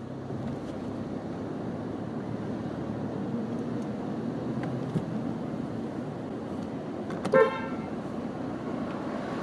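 Steady street traffic noise around a car, with one short car-horn toot about seven seconds in.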